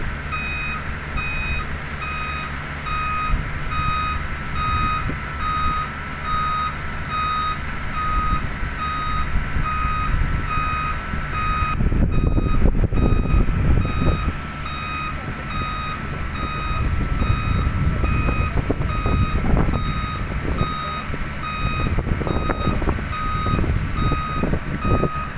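A large truck's reversing alarm beeping steadily, about once a second, over the rumble of its engine. About halfway through the rumble grows louder and rougher.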